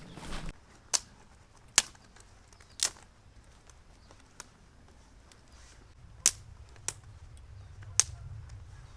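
Six sharp, irregularly spaced cracks, with a short rustle just before the first.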